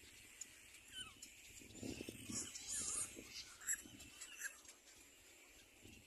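Birds calling in short, scattered notes, with a few sharper high chirps and a brief lower call near the middle.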